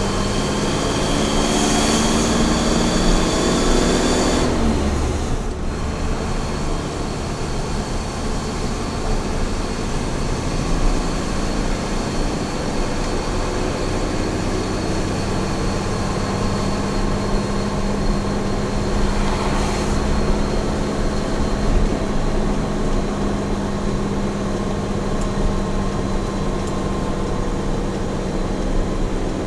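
Small truck's engine running at highway speed over steady road and tyre noise. The engine note falls about four to five seconds in, then holds steady, with a brief swell of noise about twenty seconds in.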